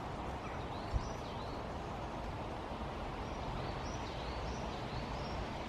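Outdoor woodland ambience: a steady even hiss with a small bird giving two quick runs of short high chirps, one near the start and a longer one in the second half. A single brief knock about a second in.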